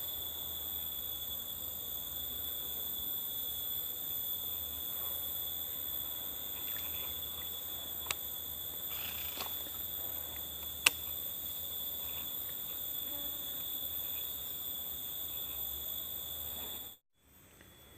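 Steady chorus of forest insects such as crickets, several high-pitched droning tones held without a break, with two sharp clicks about eight and eleven seconds in; the sound cuts off suddenly about a second before the end.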